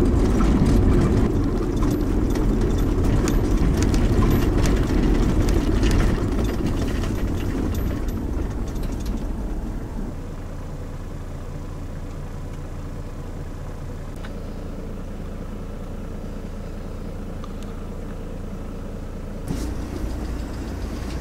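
A tow vehicle's engine and tyre noise, heard from inside the cabin, easing off about halfway through as the vehicle slows to a quiet, steady low engine hum. The sound picks up slightly again near the end.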